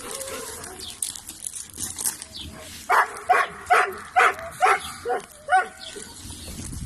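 Dog barking: a run of seven quick barks about half a second apart, starting about three seconds in.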